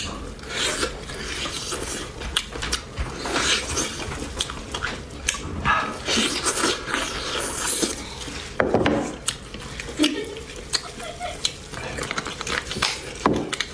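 Close-miked eating of beef bone marrow: utensils clicking and scraping against a bowl, in irregular sharp clicks and short scraping stretches.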